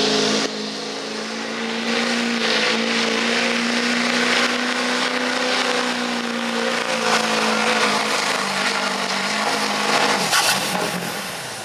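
Diesel pickup truck engine held at high revs under full load while pulling a sled, a steady drone that cuts off about ten and a half seconds in as the throttle is let off.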